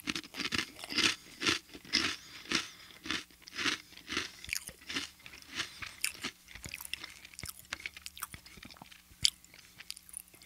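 Close-miked chewing of a crisp cracker: loud crunches about twice a second, growing softer and sparser after about five seconds, with one sharp click about nine seconds in.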